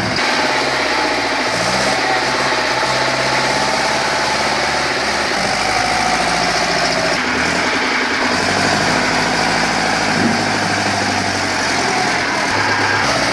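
Heavy vehicle engine running steadily, its pitch shifting a couple of times.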